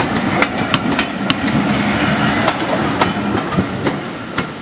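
Railway passenger coaches rolling past over jointed track and pointwork, their wheels clicking and clanking irregularly over the rail joints. The sound fades near the end as the last coach draws away.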